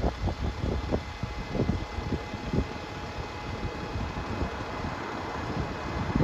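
Bus in motion: steady engine and road rumble with irregular short knocks and rattles, busiest in the first few seconds.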